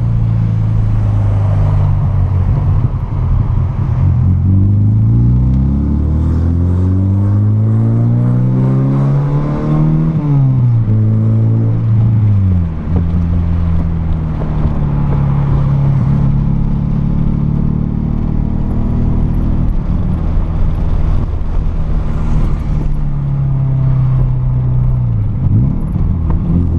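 Volkswagen Golf Mk3 engine and exhaust, with no catalytic converter, no middle silencer and an aftermarket sport rear silencer, heard while driving. The engine note climbs as the car accelerates, drops sharply about ten seconds in, rises and falls again, then holds fairly steady before dipping and climbing once more near the end.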